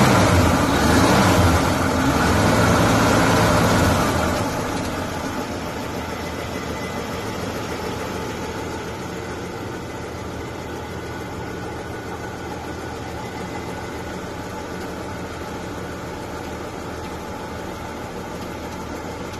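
1947 Chevrolet Fleetmaster's 216 cubic-inch overhead-valve inline-six running, held above idle by hand at the carburettor linkage for the first few seconds, then dropping back to a steady idle about four seconds in.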